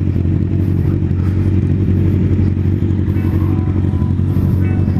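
Motorcycle engine running steadily with a heavy, even low rumble, mixed with wind rush on the microphone.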